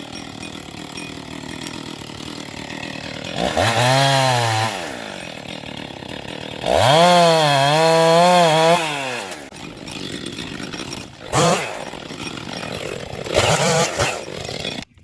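Two-stroke chainsaw running, revved hard for about a second and then for about two seconds with its pitch wavering, with two shorter revs later and a lower steady running sound between them. It cuts off abruptly near the end.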